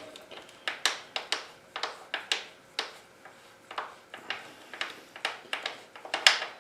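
Irregular metallic clicks and knocks as the rear axle and wheel parts of a dirt bike are handled during wheel removal, about two or three a second.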